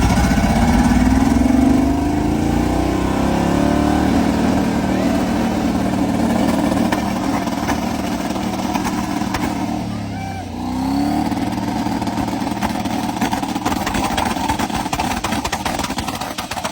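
Twin-turbo LS V8 limo engine under way. It rises in pitch over the first few seconds, holds steady, then dips and climbs again about ten seconds in.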